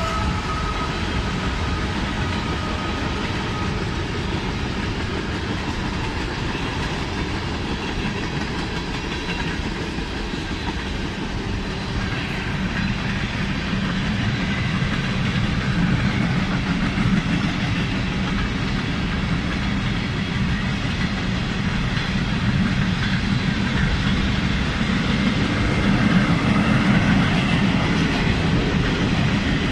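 Freight train cars, tank cars then boxcars, rolling past on the track: a steady noise of steel wheels on rail that grows somewhat louder in the second half.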